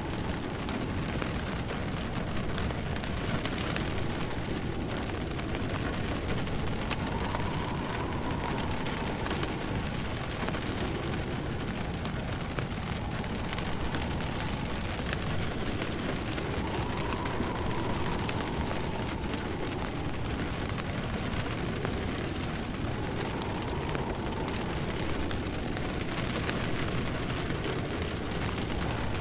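Steady rain falling on a surface, mixed with the soft crackle of a wood fire in a fireplace. A faint howling wind rises and falls every seven or eight seconds.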